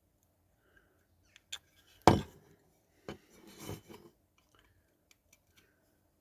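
Small clicks and scrapes of a tool working against a die-cast metal car body and its plastic louvre and window unit, with a louder knock about two seconds in and a short rasping scrape a little after three seconds.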